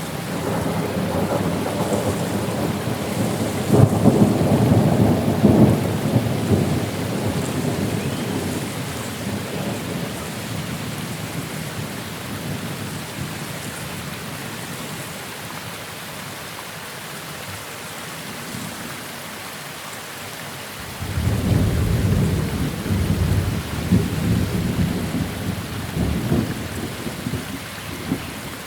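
Steady rain falling, with two long rolls of thunder: the first swells in the opening seconds and dies away, and the second breaks in suddenly about two-thirds of the way through.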